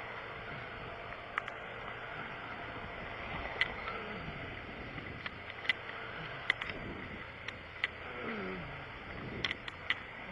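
Steady road-traffic noise with vehicles passing, their pitch falling as they go by, and a scattering of short sharp clicks.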